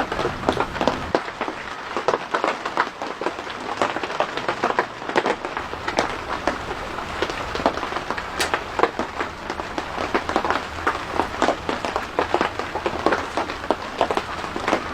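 Dense, irregular crackling and pattering, many sharp little clicks close together.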